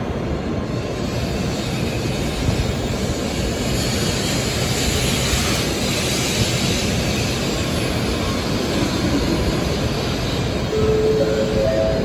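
N700A Shinkansen trainset rolling past the platform: a steady rush of wheel and air noise that grows brighter around the middle.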